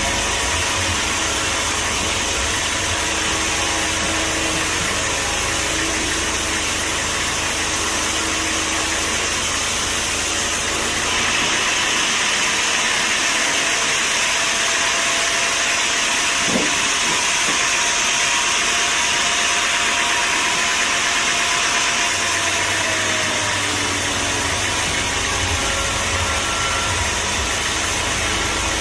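A steady engine-driven machine running. Its tone changes for about ten seconds in the middle, with less bass and more hiss.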